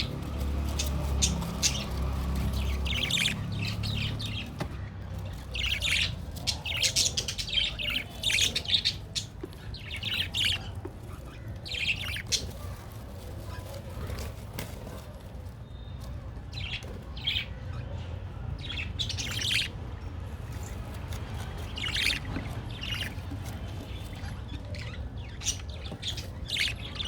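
Budgerigar chicks about 20 days old squawking and chirping: short, harsh calls in irregular clusters, busiest in the first half.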